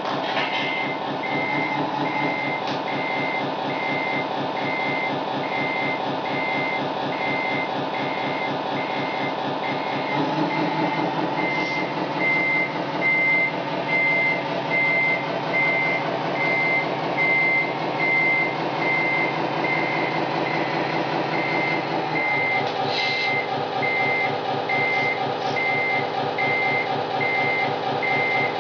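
Tamiya Scania RC model truck's electronic sound unit playing a diesel truck engine note with reversing beeps, about two a second. The engine note rises about a third of the way in and changes again near the end.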